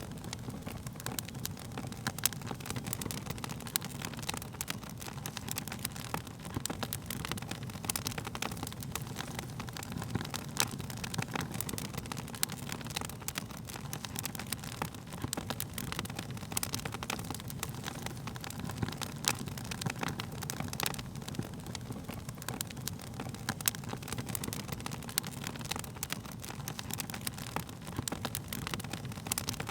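Wood fire crackling, with frequent sharp pops and snaps of varying strength over a steady low rumble of the flames.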